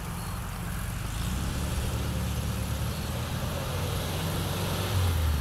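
VW Beetle's air-cooled flat-four engine running as the car drives along the road, growing louder from about a second in and loudest near the end. The engine is freshly rebuilt and running for the first time after sitting five years.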